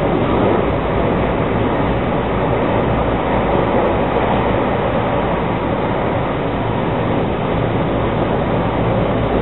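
Running noise of a JR West 223 series 2500 electric train, heard from inside the front car as it travels: a steady rumble of wheels on rail and car noise at an even level.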